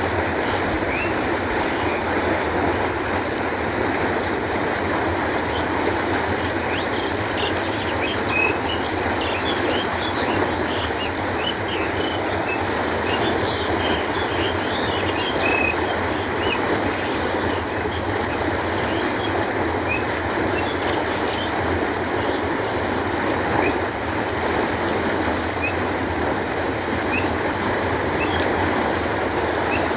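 Canal water flowing in a steady, even rush. Short bird chirps come over it through the first half and again near the end.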